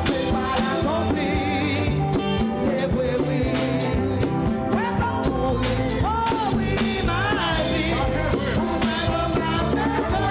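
Church worship band playing, with singing and a steady drum beat.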